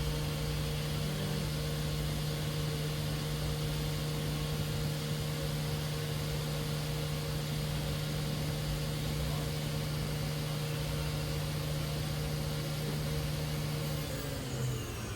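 Spindle of a Smart SV2 CNC vertical machining center running at a steady 9,000 RPM: a constant hum. Its tone shifts about fourteen seconds in.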